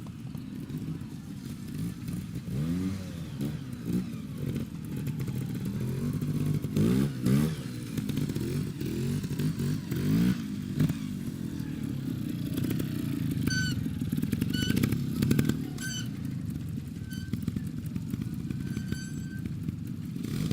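Trials motorcycle engine revving up and down in repeated short blips of the throttle, its pitch rising and falling as the bike works over the ground. Short high chirps come in several times in the second half.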